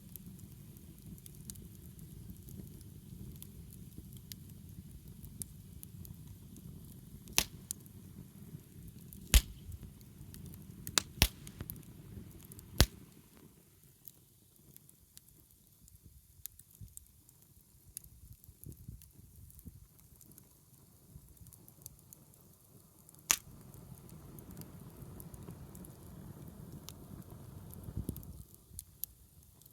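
Wood fire burning: a low steady rush of flames broken by sharp crackling pops from the firewood, several between about 7 and 13 seconds in and another a little after 23 seconds. The rush dies down for a stretch in the middle and again near the end.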